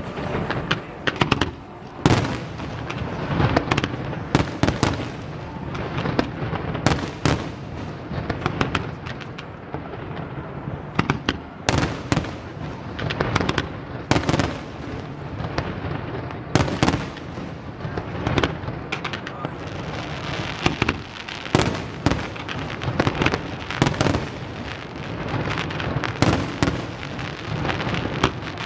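Aerial fireworks display: a dense, continuous barrage of sharp bangs from shells bursting, several a second at times, over a steady crackle.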